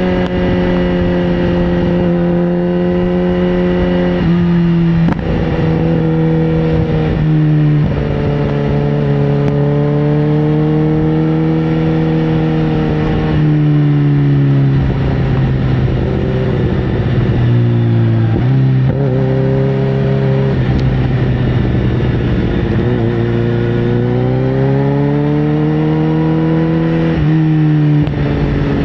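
Sportbike engine running under way. Its pitch steps down several times and climbs again near the end.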